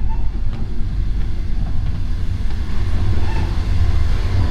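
Moving passenger train heard from inside the carriage: a steady low rumble with a few faint clicks over it.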